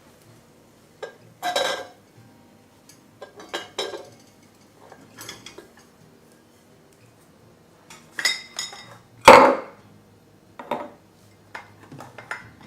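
Dishes and cutlery clinking and knocking in a kitchen: a string of separate clinks, some ringing briefly, with the loudest knock a little past nine seconds in.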